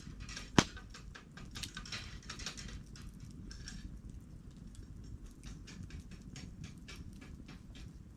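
Wood campfire crackling: a steady run of small, irregular crackles and snaps, with one loud sharp pop about half a second in.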